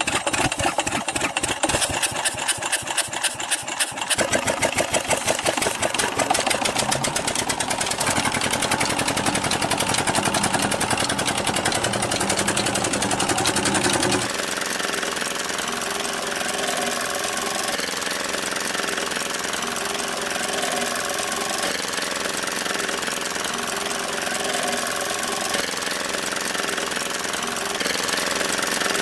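Miniature model single-cylinder diesel-style engine running after a hand-crank start, chugging in distinct beats that quicken about four seconds in. About halfway through the sound changes abruptly to a smoother, steady run.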